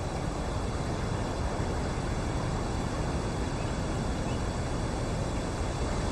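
Steady low rumbling background noise, even and unbroken, with no distinct events.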